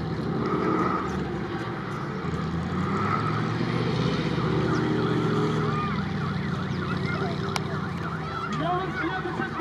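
Off-road 4x4's engine running hard under load, its pitch climbing and easing as the throttle is worked.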